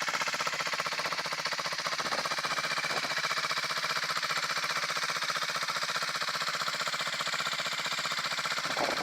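Rieju Century 125 scooter idling steadily through a Black Widow stainless full exhaust system, a fast, even pulsing exhaust note with no revving.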